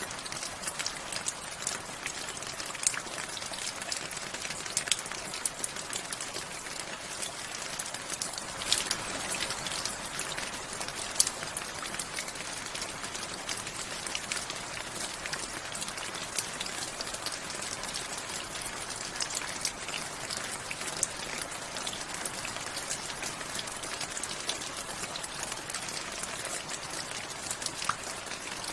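Steady rain falling, an even hiss with many distinct drops pattering on a surface, a few louder drip ticks standing out.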